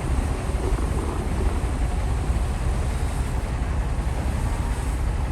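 Heavy bulldozer's diesel engine running steadily, a continuous low rumble.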